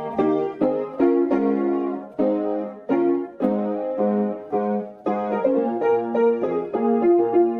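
Background piano music: chords struck about every half second, each fading before the next.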